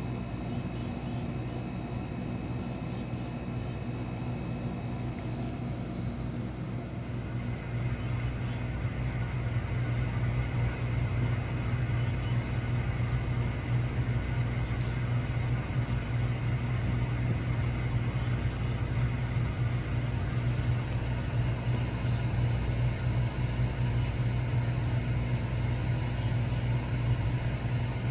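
Steady low rumble with a hum, growing somewhat louder about eight seconds in.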